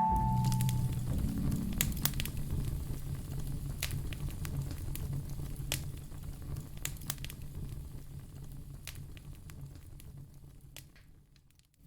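Fireplace crackling: scattered sharp pops and snaps over a low steady rumble. It fades away gradually and is almost gone just before the end.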